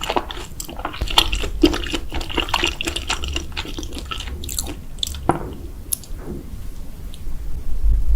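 Close-miked wet chewing and mouth sounds of someone eating ramen noodles: dense smacks and squelches that thin out after about five seconds.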